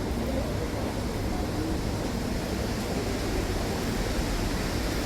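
Wind blowing steadily, a constant rushing noise heaviest in the low end.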